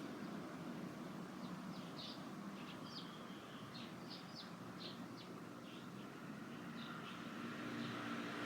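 Small birds chirping: a loose series of short high chirps over a steady low background hum.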